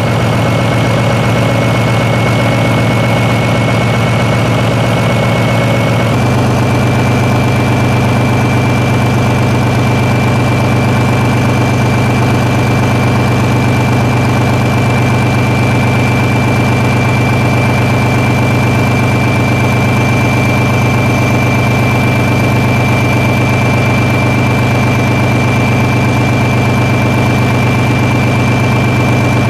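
SACM MGO V12 four-stroke diesel engine running steadily, with a high steady whine over the engine note. Its pitch steps up slightly about six seconds in and then holds.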